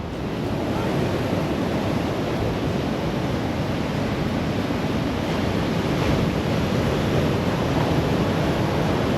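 Ocean surf breaking and washing ashore in a steady, continuous wash, with some wind on the microphone.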